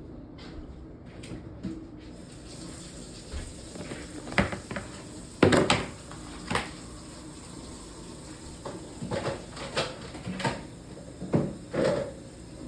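Kitchen tap running into a sink, with a series of clunks and clatters as a dish is handled in it. The chops are being rinsed in warm water.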